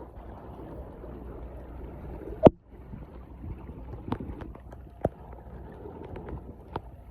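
Water rushing and gurgling steadily, broken by a few sharp knocks, the loudest about two and a half seconds in.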